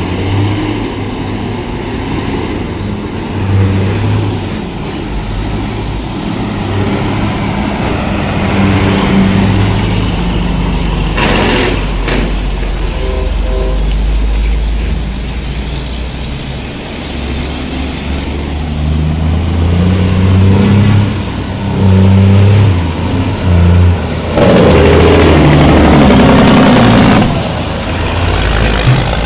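Heavy vehicle engine running, its pitch rising and falling as it changes speed, with a few loud rushes of noise in the last few seconds.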